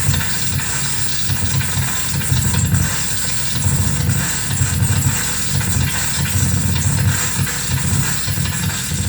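Harsh noise from an electronic noise rig built on mixer feedback, reel-to-reel tape, reverb and bass. A loud low rumble stutters and churns rapidly over a constant hiss, with a couple of faint steady feedback tones.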